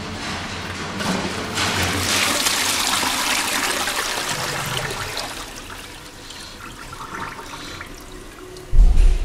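Caroma dual-flush toilet flushing: a rush of water builds about a second in, runs strongly for a few seconds, then drains away, without clearing the paper towel in the bowl. A short low thump comes near the end.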